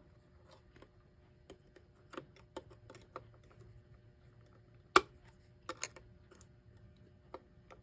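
Small metallic clicks and ticks of fine needle-nose pliers gripping and turning a small nut on a threaded post inside a wooden clock case. The nut is tight and only just starting to move. The loudest click comes about five seconds in, with two more close together just after.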